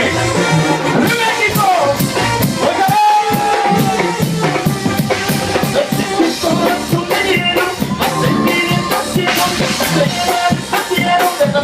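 Regional Mexican band playing an instrumental passage live, a drum kit keeping a steady beat under a melody line.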